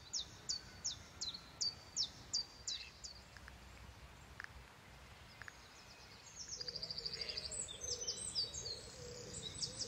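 Faint outdoor ambience with a small bird calling: a quick series of short, high chirps, about three a second, for the first few seconds, then a rapid high trill with other bird notes from a little past the middle.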